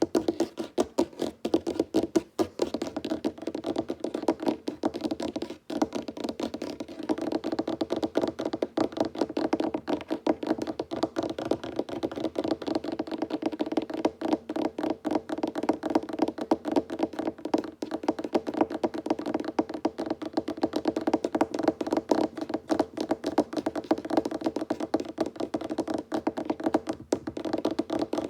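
Fingertips and nails tapping rapidly and continuously on a wooden tabletop, many taps a second in a dense, uneven patter.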